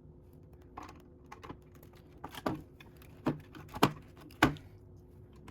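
Lego bricks being handled and pressed onto the model: a string of sharp plastic clicks, about eight of them, the loudest two in the second half.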